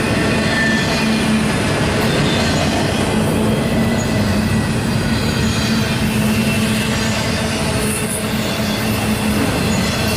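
Union Pacific double-stack intermodal train rolling steadily past, its wheels rumbling on the rail with a steady low hum and a faint high squeal from the wheels at times.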